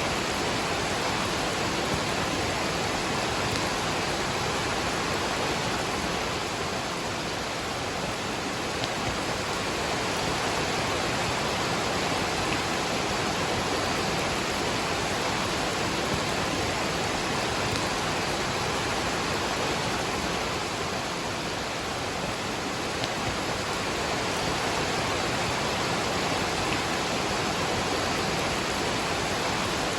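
Waterfall and rain: a steady, even rush of falling water with no breaks or distinct drops.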